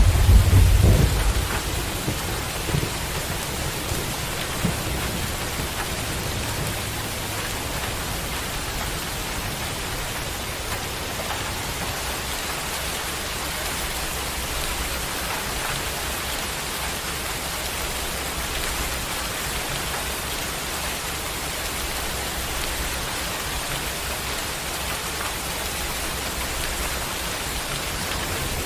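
Heavy rain pouring steadily, a constant hiss, with a loud low rumble in the first second or so.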